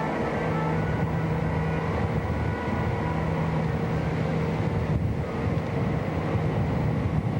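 Sightseeing boat's engine running with a steady drone, holding constant low tones over the rush of the hull through the water.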